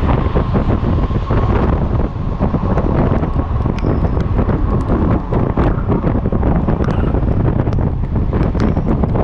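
Wind buffeting the camera microphone on a Yamaha XMAX scooter at freeway speed: a loud, steady rush with many sharp ticks scattered through it.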